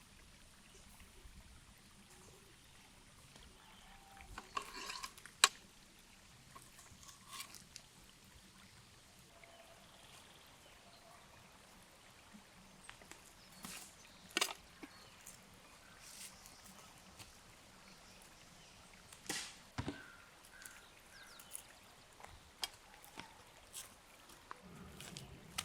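A few scattered sharp clicks and knocks over a faint, quiet background, the loudest about five seconds in.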